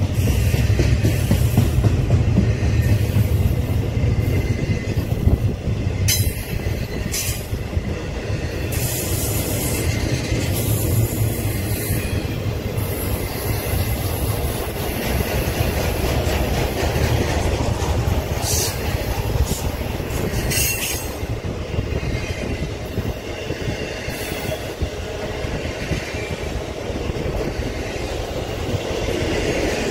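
Double-stack intermodal freight train rolling past at close range: a steady rumble of steel wheels on the rails, with brief high squeals now and then.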